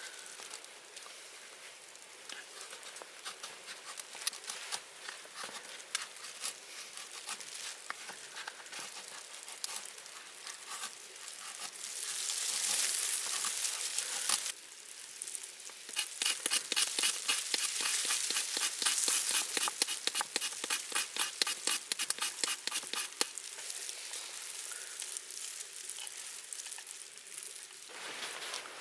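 Campfire cooking: steady fine crackling, with a louder stretch of sizzling about 12 seconds in and a longer, denser one from about 16 to 23 seconds.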